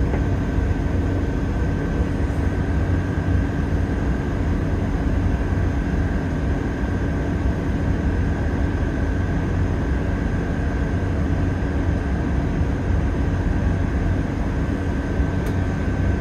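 Inside a Class 166 diesel multiple unit on the move: a steady low rumble of the underfloor diesel engines and wheels on the rails, with a steady hum and a thin high whine over it.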